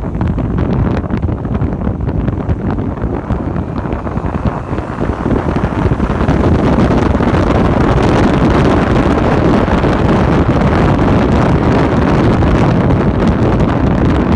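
Wind buffeting a phone's microphone on a moving motorcycle, a dense rushing noise that grows louder about six seconds in.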